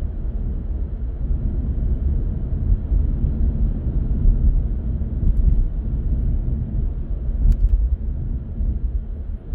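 A car driving along a city road: a steady low rumble of tyres, road and engine noise.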